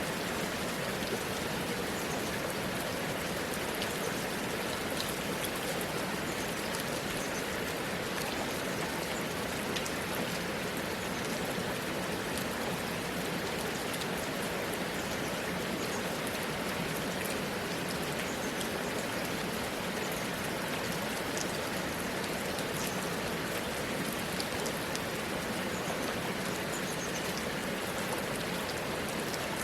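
Steady rainfall, a constant hiss of rain with many fine drops pattering on surfaces.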